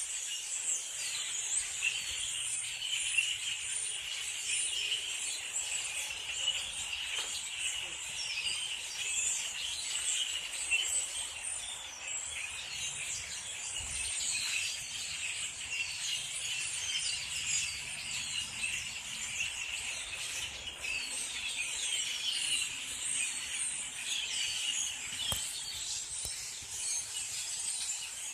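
A large flock of birds calling all at once: a dense, unbroken chatter of many overlapping short, high chirps and squeaks.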